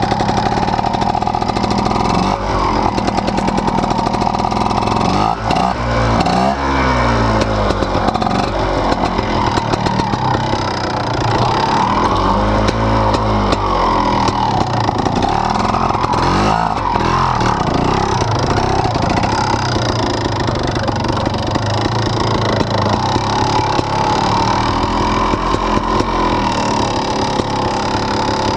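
Fantic 300 trials motorcycle's two-stroke single-cylinder engine running as it is ridden, its pitch rising and falling several times as the throttle is opened and closed.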